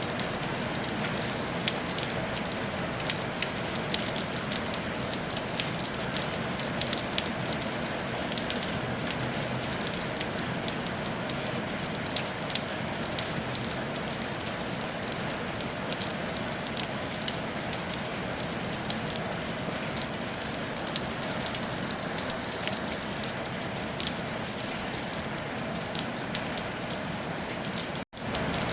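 Steady rain falling on a roof: an even hiss with many small, quick drop impacts. Near the end the sound cuts out completely for a split second, then resumes.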